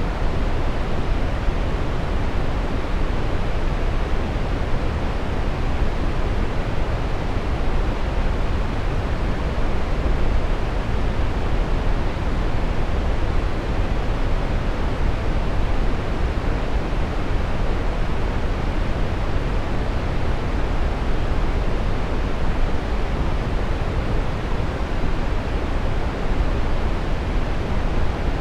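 Steady brown noise: an even, deep rushing hiss, heaviest in the bass and dull in the treble, unchanging throughout.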